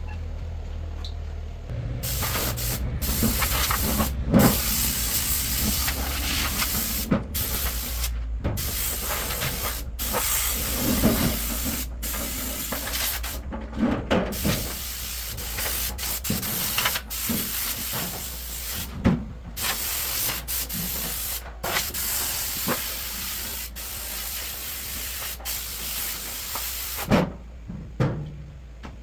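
Compressed air hissing out in long spraying stretches, cut by brief stops every second or two, with a few light knocks between.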